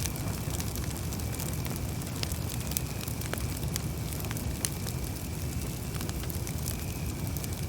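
Campfire crackling: scattered sharp pops and snaps over a steady low rumble of the burning fire.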